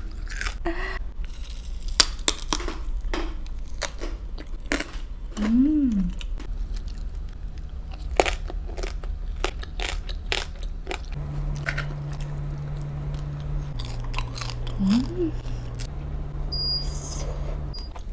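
Close-miked chewing and biting of grilled food, with many sharp crunching bites. A low steady hum runs underneath, and low held tones step in pitch in the second half.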